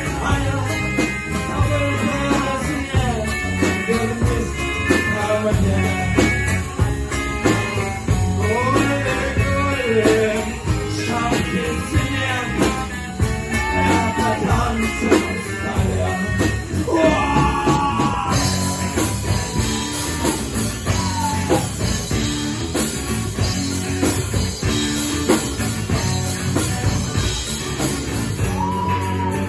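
Rock band playing a song with a singer's voice over guitars and a steady drum beat.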